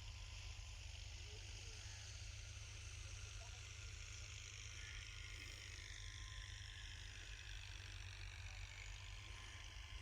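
A New Holland Al-Ghazi tractor's engine running steadily, heard faintly as a low rumble.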